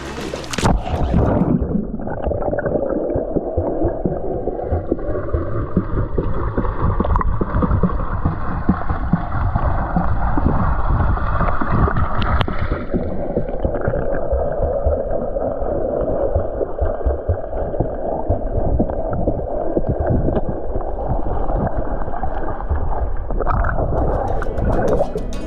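Muffled rushing and gurgling of cold stream water, heard through a microphone in or under the water, so it carries little treble.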